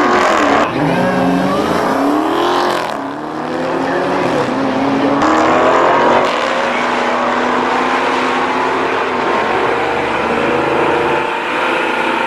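High-performance car engine under hard acceleration, its pitch climbing and then dropping back at each upshift, a few times in the first six seconds, before holding higher and rising more slowly.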